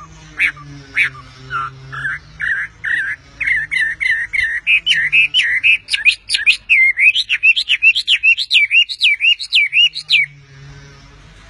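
A wambi songbird singing a long series of sharp, clear chirps. The notes come faster and louder as the song goes on, then stop about ten seconds in.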